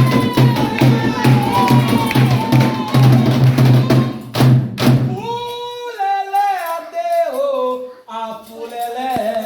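Candomblé ritual music: atabaque hand drums beat a steady rhythm under chanted singing, then the drums stop about halfway through and a lone voice carries on singing the chant.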